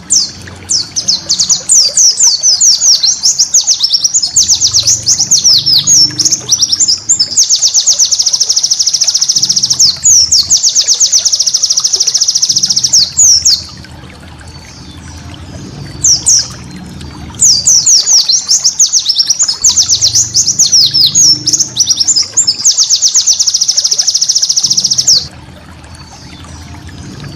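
White-eye (pleci) singing a fast, high-pitched chattering song of rapid trills, in long bursts broken by two short pauses, about halfway through and near the end.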